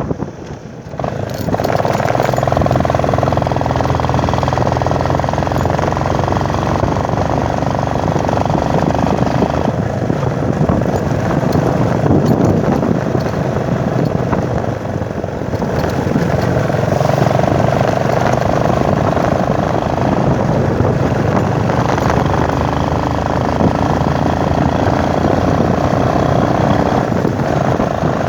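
Motorcycle engine running under way with road and wind noise, its pitch rising and falling slightly as the ride goes on; the level drops briefly about a second in.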